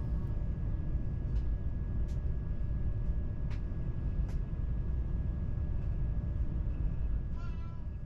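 Cabin noise of a Frecciarossa 1000 (ETR 400) high-speed train on the move: a steady low rumble with a faint constant high whine, a few faint clicks, and a brief high-pitched sound near the end.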